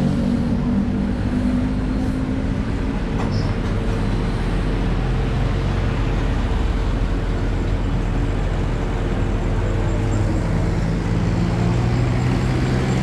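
Steady motor-vehicle noise: engines running with road traffic. A low engine hum grows stronger near the end.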